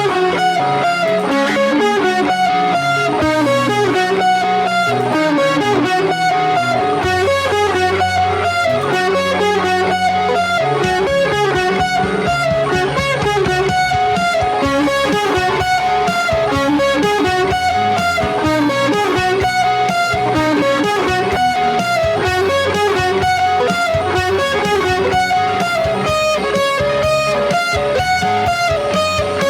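Electric guitar played through an amp with effects, running through a fast intro riff of quick single notes over shifting low notes.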